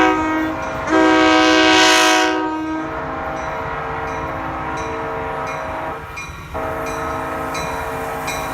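Train horn blowing its chord: a short blast, then a long loud blast, then held more softly with a brief break about six seconds in. Faint regular ticking sounds along with it.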